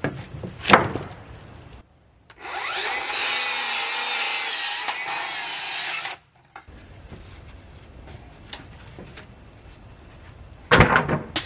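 A power saw cutting through a cedar board for about four seconds, starting and stopping abruptly. Sharp wooden knocks, boards being handled, come about a second in and again near the end.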